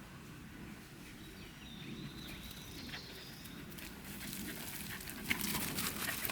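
A bird gives a thin high whistling call about two seconds in, then crisp crackling and rustling steps through leaves and twigs on the forest path build up over the last couple of seconds.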